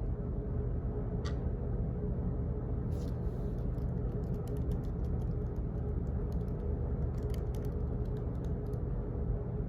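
Office background noise: a steady low hum, with scattered clicks of typing on a computer keyboard that come in quick runs from about three seconds in.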